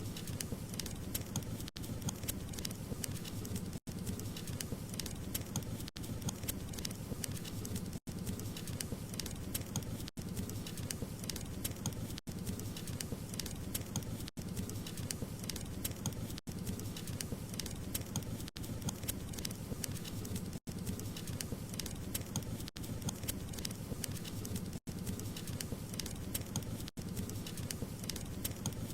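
Wood fire crackling: a steady low rumble under many small sharp pops and snaps. There is a brief cut to silence about every two seconds.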